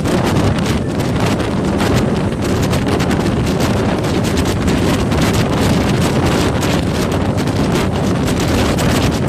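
Strong wind buffeting the microphone from travelling at speed, over a steady low rumble of a moving vehicle.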